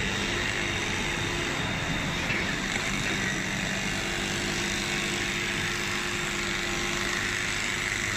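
Steady machinery noise, a continuous running sound with a constant low hum and no distinct strikes or changes.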